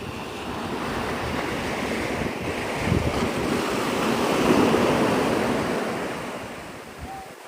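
Surf breaking and washing up the shore, swelling to a peak around the middle and then dying away, with wind buffeting the phone's microphone.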